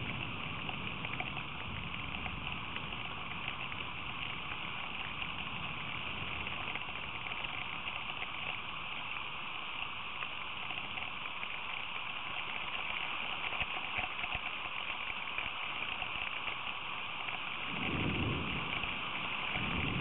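Steady hiss of heavy rain falling, picked up by a feeder camera's microphone, with a brief low rumble near the end.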